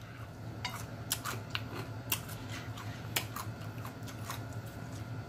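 Close-miked chewing of crunchy fried chicken skin: a dozen or so sharp, irregular crunches over a low steady hum.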